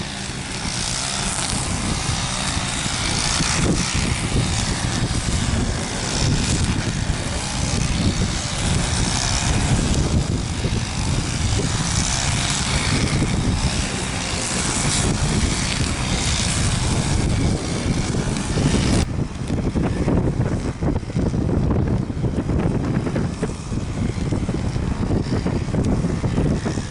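An airliner's engines passing close by, with gusty wind rumbling on the microphone. The engine sound thins out about two-thirds of the way through, leaving mostly wind rumble.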